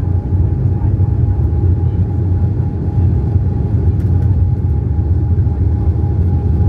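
Embraer 195 jet airliner cabin noise: a steady, loud low rumble from the engines and airflow, with a faint constant whine above it.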